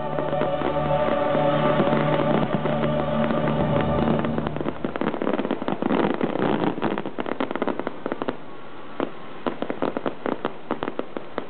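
Fireworks bursting and crackling in rapid volleys, with loudspeaker music that ends about halfway through; after that the bangs thin out into scattered cracks.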